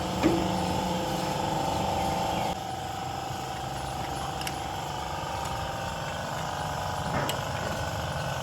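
Toyota Corolla GLI petrol engine idling steadily, a car whose sound has gone completely bad, in the mechanic's words. The note steps down in level about two and a half seconds in.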